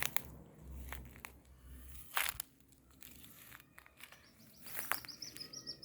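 Dry vegetation rustling and crackling with scattered snaps as someone pushes through grass and brush, the loudest snap about two seconds in. Near the end a rapid series of high, thin peeps starts up.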